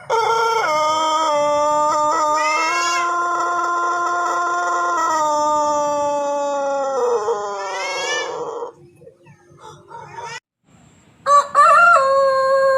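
Ayam Pelung rooster crowing: one very long crow of about eight and a half seconds, held mostly on one pitch with a few small steps and a wavering tail. After a short pause, another long crow starts about a second and a half before the end.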